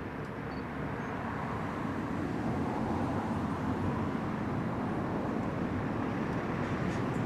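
Low rumble of a distant motor vehicle, growing steadily louder as it approaches.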